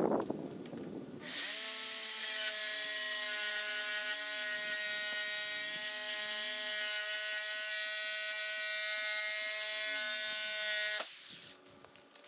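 Electric power tool running at a steady speed for about ten seconds, cutting away rotted wood; it starts about a second in and cuts off abruptly near the end.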